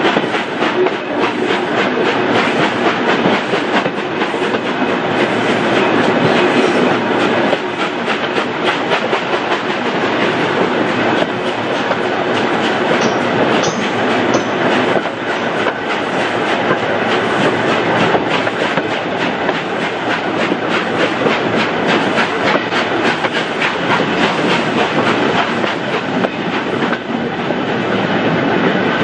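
Steam-hauled train on the move behind Black Five locomotive 45212, a continuous fast clatter of exhaust beats and wheels on rail that runs without a break.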